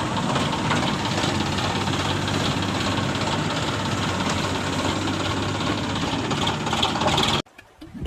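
Tractor engine running steadily at an even pitch, cutting off suddenly about seven seconds in.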